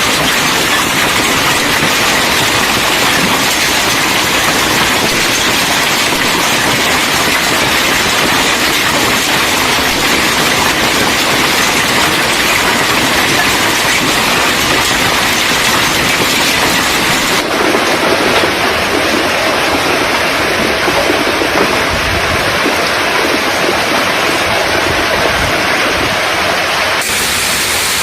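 Heavy storm downpour: a loud, steady, dense rushing noise that changes abruptly about 17 seconds in and again near the end.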